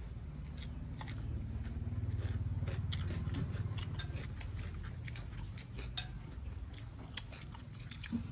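Crunchy chewing of fresh cucumber close to the microphone, with many short sharp mouth clicks and smacks over a low steady hum.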